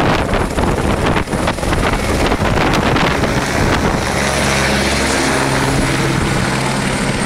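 Helicopter rotor and engine running close by. For the first three seconds the sound is gusty and irregular, with wind buffeting the microphone; after that it settles into a steadier hum.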